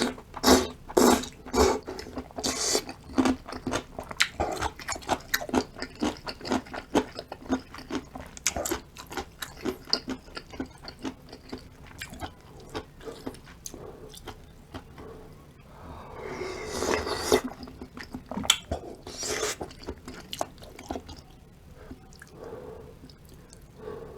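Close-up eating sounds from a person eating spicy beef soup with cubed radish kimchi: many quick, crisp chewing clicks, dense at first and thinning out after about twelve seconds, with a couple of longer, noisier stretches around sixteen and nineteen seconds in.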